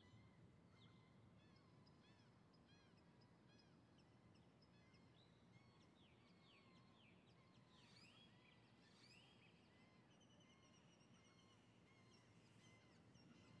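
Faint birdsong: several birds giving short arched chirps and whistles in quick series, with a few rising calls around the middle, over a low steady hum.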